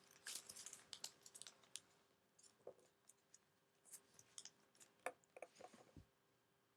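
Faint rustling and crisp little taps of a sheet of origami paper being handled, folded and creased by hand, in short clusters near the start and again around the middle.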